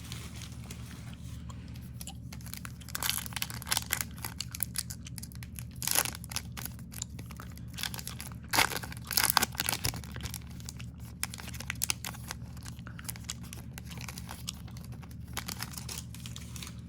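Foil trading-card pack wrapper being torn open and crinkled, in irregular crackling bursts that are loudest around the middle, over a steady low hum.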